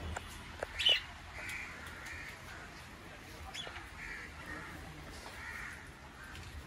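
Harsh bird calls, about six short caws or squawks coming roughly in pairs every second or so, with a sharp click about a second in.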